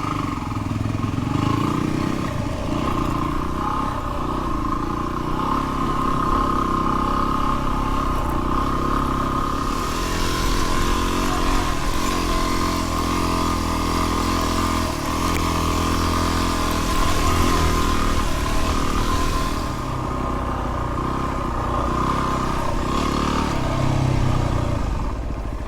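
Dual-sport motorcycle engine running steadily as the bike is ridden, with a rushing hiss added for several seconds in the middle.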